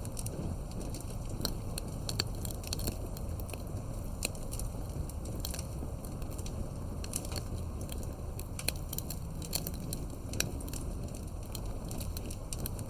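Campfire of wood logs burning, a steady low rumble of flame with irregular sharp crackles and pops from the wood.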